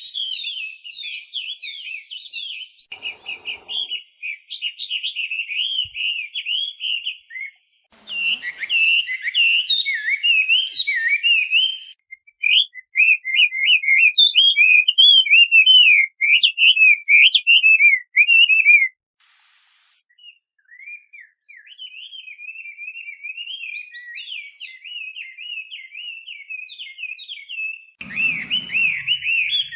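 Chinese hwamei (melodious laughingthrush) singing a long run of rapid, varied whistled phrases, with a short pause about two-thirds of the way through.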